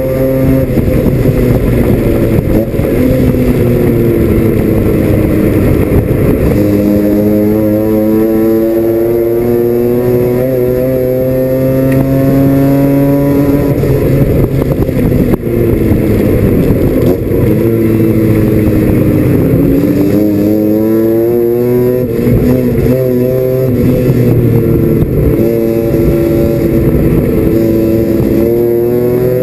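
Mazda RX-7 FC's 13B twin-rotor racing engine, heard from inside the cockpit at race speed, revving up under acceleration and dropping in pitch on lifting and braking several times. Road and wind noise rumble steadily underneath.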